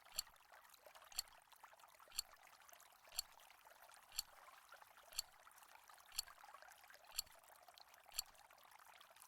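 A quiz countdown timer ticking once a second, nine sharp ticks over a faint steady hiss.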